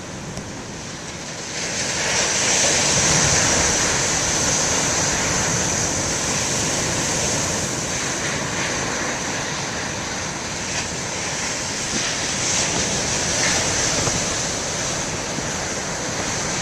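Heavy storm surf breaking and washing over a rocky shore, a loud rushing roar of water that swells about a second and a half in and then holds steady.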